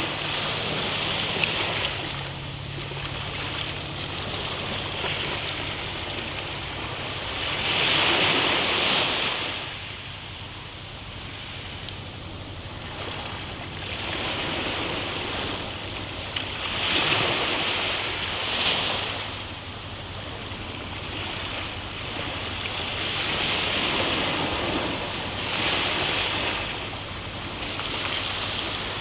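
Ocean surf: waves breaking and washing ashore, the rushing swelling up and fading away every several seconds.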